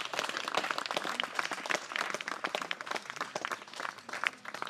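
Audience applauding with dense, irregular clapping that thins out and grows quieter toward the end.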